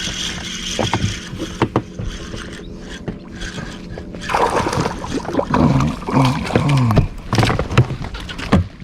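Water slapping and sloshing around an inflatable boat over a steady low hum, turning into a busier splashing with knocks and clicks about four seconds in while a hooked queenfish is being fought at the boat.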